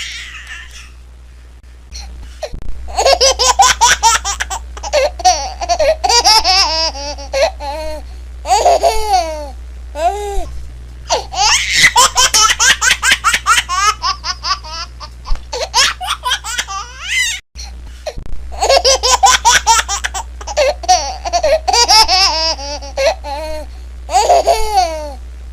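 High-pitched laughter in repeated bouts of rapid, breathy giggling, separated by short pauses, over a low steady hum.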